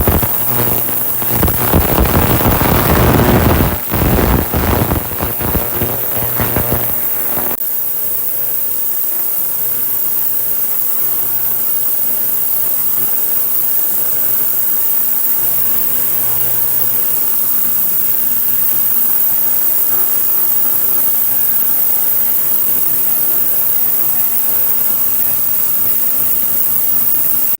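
Ultrasonic cleaner running loud with a diesel heater's combustion chamber in its tank: a harsh, high hiss over a low hum. About seven seconds in the sound drops suddenly to a steadier, somewhat quieter hiss with the hum coming and going.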